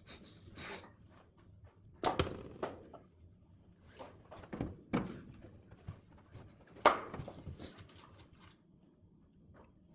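Split oak firewood being stacked: irregular wooden knocks as logs are set down on one another. The loudest come about two, five and seven seconds in.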